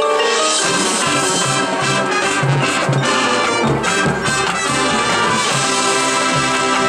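Marching band playing at full volume: brass and drums come in together about half a second in, with mallet percussion ringing just before them.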